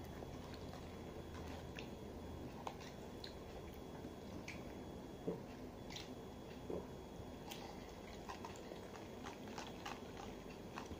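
Close-up eating and drinking mouth sounds: chewing, with scattered small clicks and smacks and sips through a straw, over a steady low hum. The clicks come thicker in the last few seconds.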